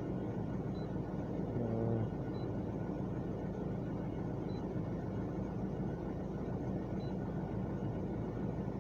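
Citroen C4 1.6 diesel engine idling steadily, with a few faint short high pips now and then and a brief pitched sound about two seconds in.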